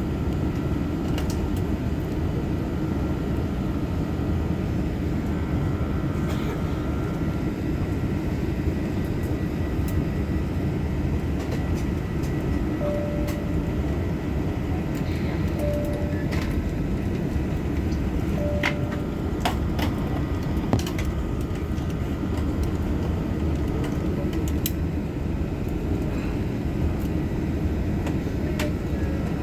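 Airbus A380 on its takeoff run, a steady low rumble that holds an even level throughout, with scattered faint clicks. Three short faint beeps come in the middle stretch.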